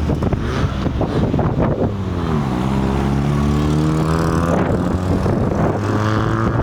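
A car engine running loud under acceleration, rough and crackly at first; about two seconds in its pitch drops and then holds as a steady drone.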